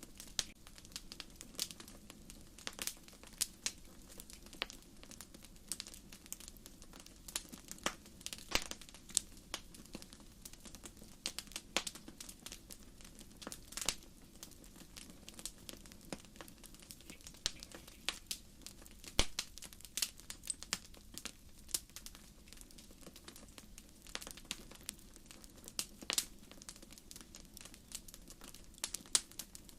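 Firewood burning in an open wood fire, crackling with irregular sharp pops, a few each second, over a low steady rush. One of the loudest pops comes a little past halfway.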